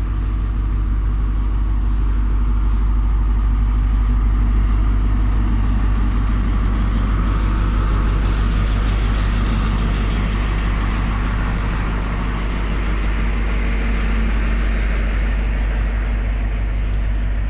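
Class 43 HST power car's diesel engine idling steadily, a constant low hum.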